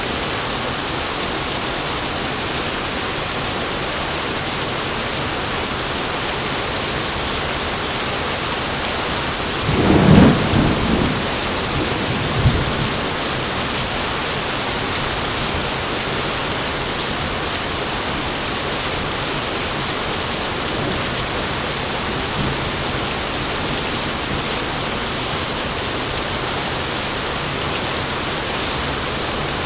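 Heavy rain falling steadily. About ten seconds in a thunderclap breaks and rumbles off over a second or so, with a second, shorter crack a couple of seconds later.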